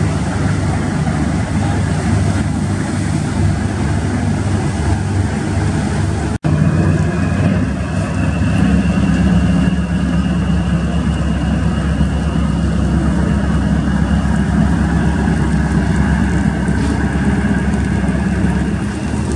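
Steady low drone of the passenger ship KM Glory Mary under way, with a wash of noise over it. It breaks off for an instant about six seconds in, and after that a faint high whine runs over the hum.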